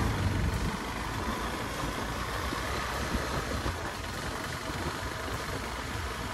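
Motorcycle engine running steadily during a ride.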